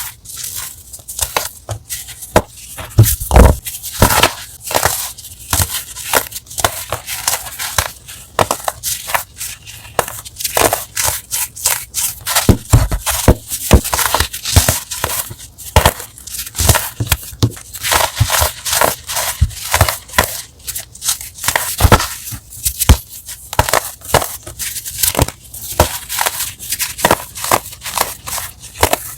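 Crunchy chalk being crushed: a dense run of sharp crunches and crackles, some stronger snaps among them, going on without a break.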